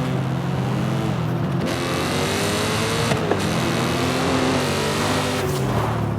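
Audi RS4's engine running under way, its note climbing and dropping in pitch several times as it is driven, over steady road noise. Two short sharp clicks a little past halfway.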